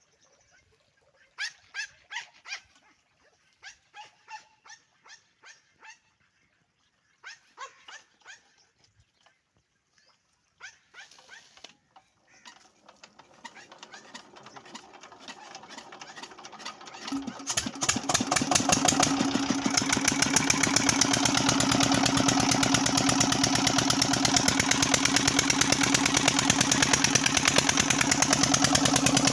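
A Peter diesel engine driving a tubewell pump, cranked up and catching about seventeen seconds in: a fast, even beat that builds within a couple of seconds and then runs steady and loud. Before that, short bursts of a dog barking.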